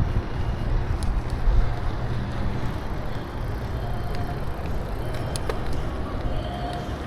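Wind rumbling on the microphone and road rumble from a bicycle being ridden along a paved path, with a few faint ticks and rattles.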